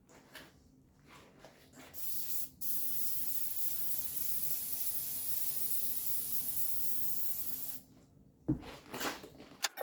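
Aerosol can of spray adhesive hissing steadily for about six seconds, with a few light handling clicks before it and a single knock shortly after it stops.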